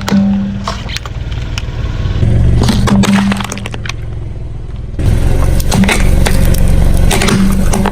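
Things cracking and crunching under a car's tyres while the car's engine runs, with many sharp cracks over a steady low engine drone. The sound changes abruptly twice.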